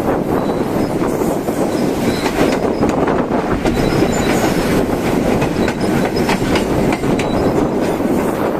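Train running along the track: a steady loud rumble with scattered clicks of the wheels over the rails.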